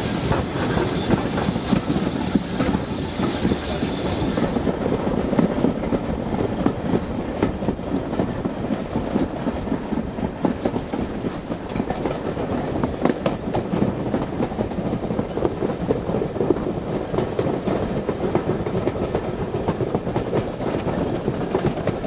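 Heritage railway train running along the track, with a continuous rumble and frequent clicking of wheels over the rails. A high hiss cuts off about four seconds in.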